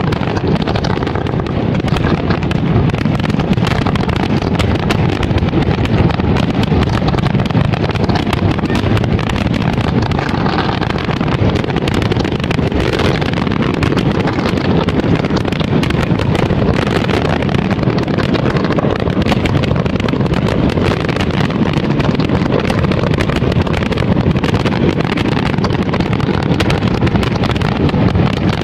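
Dense fireworks barrage: many aerial shells bursting and crackling in quick succession, the reports running together into one steady, loud rumble.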